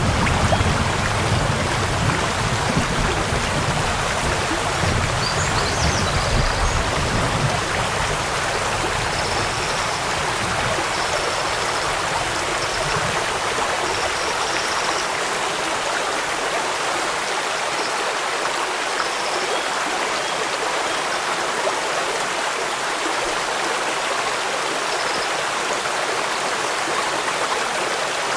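Steady rushing of running water, like a stream or heavy rain, an even hiss across the range. A deeper low rumble under it fades out about halfway through, and a few faint, short high chirps come and go in the middle.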